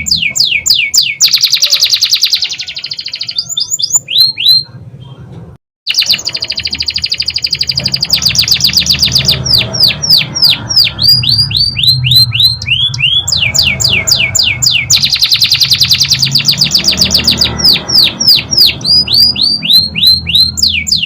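Domestic canary singing a long song. It gives runs of quick, high, downward-sweeping whistled notes that alternate with very fast trilled rolls. The song breaks off briefly about five and a half seconds in.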